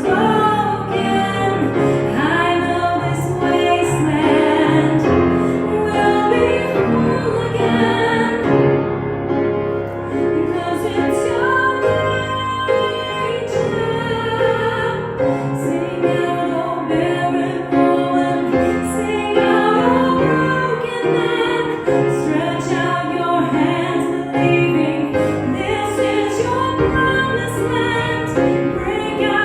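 A woman singing a slow worship song over instrumental accompaniment, holding long notes with vibrato.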